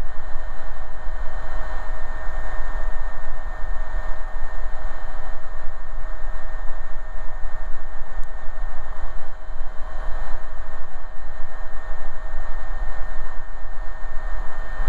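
Cockpit noise of an AgustaWestland AW119 Koala single-engine helicopter in cruise: a steady, loud rushing hiss over a deep rumble, with two constant whine tones from the turbine and gearbox.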